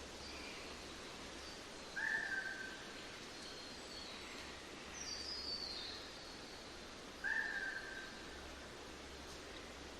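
Birds calling over a steady outdoor background hiss: two louder short calls about two seconds in and again near seven seconds, a quick falling series of high notes about halfway through, and faint high chirps scattered between.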